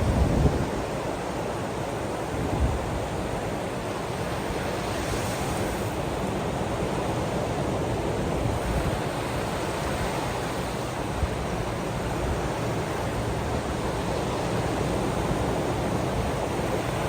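Ocean waves washing steadily on the shore, with a few brief low bumps of wind buffeting the microphone.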